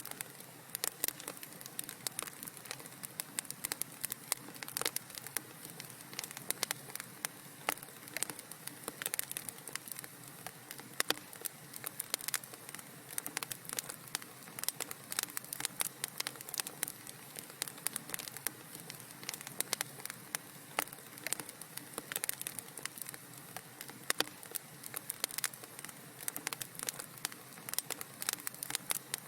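Wood fire crackling in a fireplace: a soft steady hiss under many irregular sharp pops and snaps.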